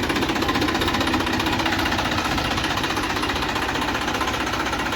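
Massey Ferguson tractor's diesel engine running with a steady, rapid clatter.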